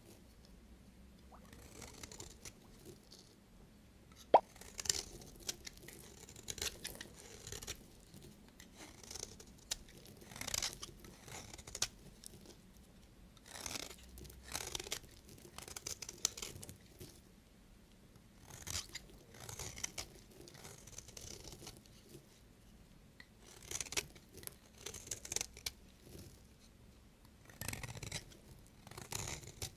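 A knife cutting through bars of soap: repeated short crunching strokes in irregular clusters, with one sharp click about four seconds in.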